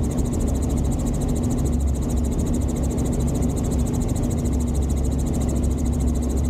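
Helicopter in flight: steady engine and rotor noise with a low rumble and an even, unchanging drone.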